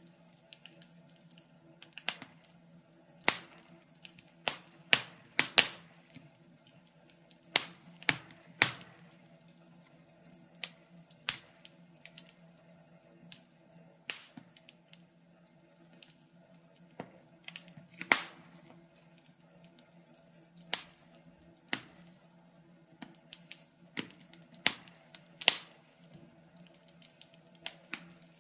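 Wood fire crackling in a fireplace: irregular sharp snaps and pops, some much louder than others, over a faint steady low hum.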